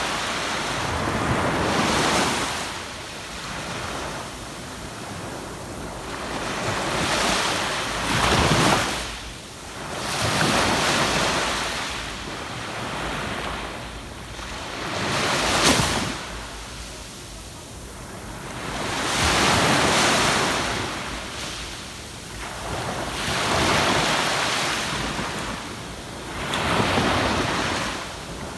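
Ocean waves breaking and washing up a sandy beach, each surge swelling and fading about every three to four seconds, with wind buffeting the microphone.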